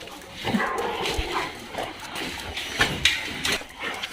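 Several dogs moving about close by, making short, irregular dog sounds.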